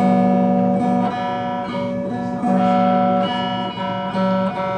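Electric guitar played clean through a small test amp: a string of strummed chords, each held briefly before the next. It is a playing check of the guitar's controls and wiring after new vintage tone capacitors were fitted.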